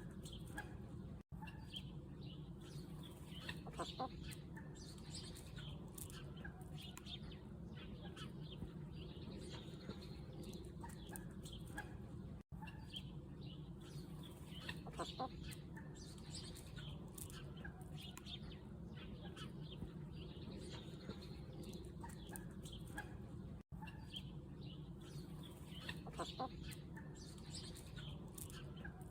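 Chickens clucking quietly, with many short high chirps over a steady low hum. The sound cuts out for an instant three times.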